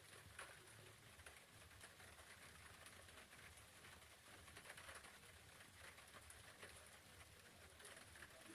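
Faint raindrops pattering in irregular, scattered ticks over a steady low rumble.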